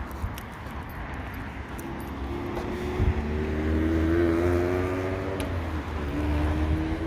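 A car's engine approaching and passing on the road, loudest about four seconds in, over a steady low wind rumble on the microphone.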